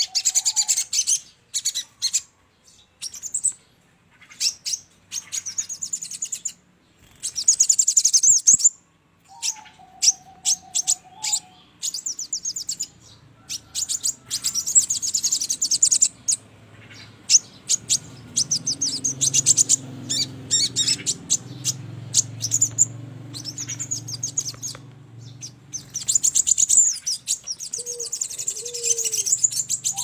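Sogon bird lure call: bursts of rapid, high chirping trills repeating every second or two, with short pauses between them. A lower, falling whistled note comes about ten seconds in, and a faint low hum sits underneath during the second half.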